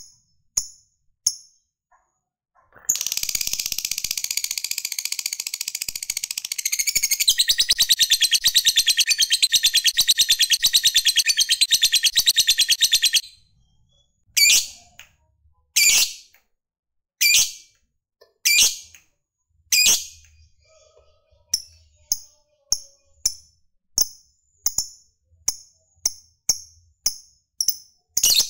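Lovebird chattering: a few short chirps, then a long, fast, unbroken trill of about ten seconds, the 'ngekek', which grows louder partway through. After it come single sharp chirps and then a run of short chirps about one and a half a second.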